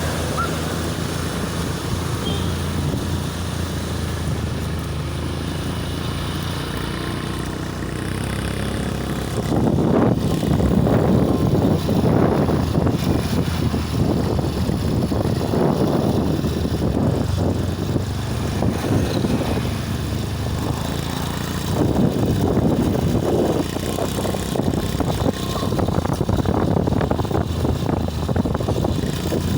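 A motor vehicle's engine running steadily, with louder, uneven rushing noise from about ten seconds in.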